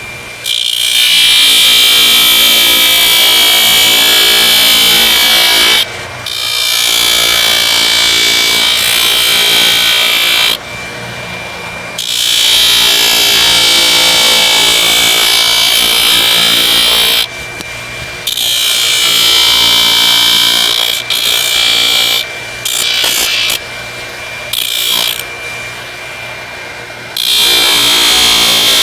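Electric power tool, a grinder-type tool, running steadily. Work is pressed against it in long passes of about four to six seconds each, each one adding a loud hissing grind over the motor, with brief drops between passes where mostly the motor is heard.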